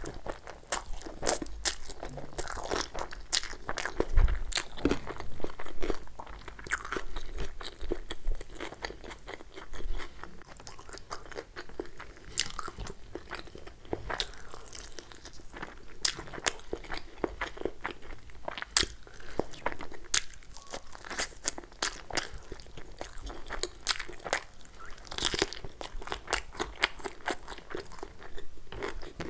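Close-miked chewing of hand-fed mouthfuls of egg fried rice and masala chicken: many sharp, irregular crunching and wet mouth clicks.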